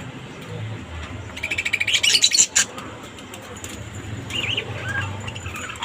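Small pet birds chirping: a fast, high chattering trill about a second and a half in, lasting about a second and the loudest part, then a few short chirps later on.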